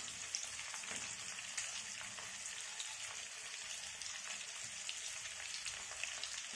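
Potato chunks and eggs frying in hot oil in a pan: a steady sizzling hiss with fine crackles.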